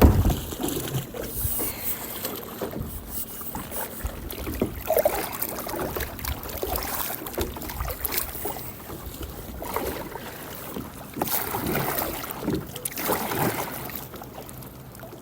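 Strong wind buffeting the microphone on a kayak in choppy sea, with water washing against the hull and scattered knocks.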